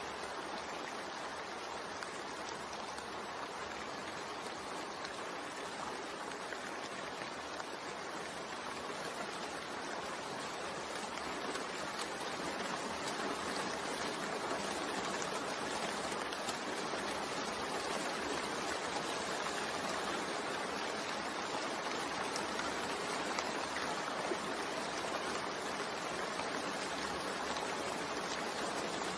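Steady rain falling, an even hiss of many drops that grows a little louder about halfway through.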